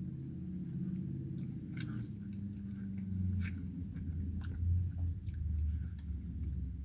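A person chewing crispy fried chicken close to the microphone, with scattered crunchy clicks, over a steady low hum.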